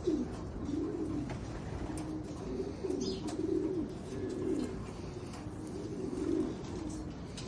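Homing racing pigeons cooing, one low cooing phrase after another with hardly a break.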